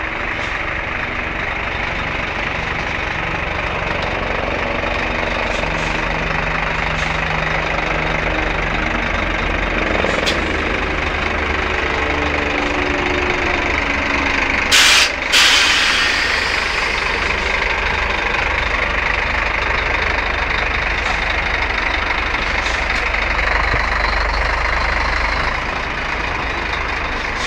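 Scania truck's diesel engine idling with a steady low rumble. About halfway through, two short, sharp bursts of compressed air hiss out, from the truck's air brakes or air suspension.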